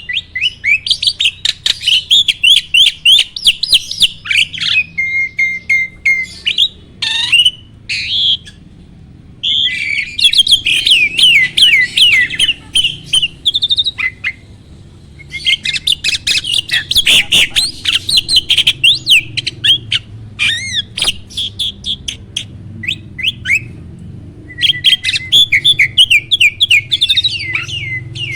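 A starling (jalak) singing loudly: long runs of rapid, varied chattering notes and whistled slurs, broken by a few brief pauses.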